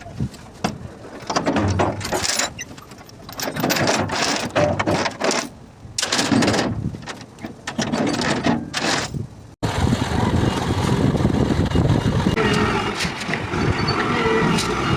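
A truck's engine and road noise. The sound comes in uneven surges for the first part, breaks off abruptly about ten seconds in, then runs on more steadily.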